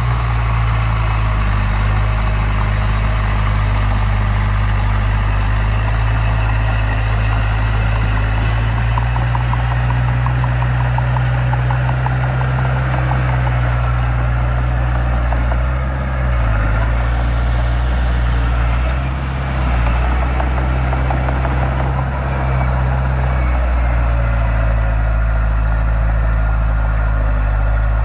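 Heavy diesel construction machine engine running steadily at a low rumble, with small shifts in engine note now and then.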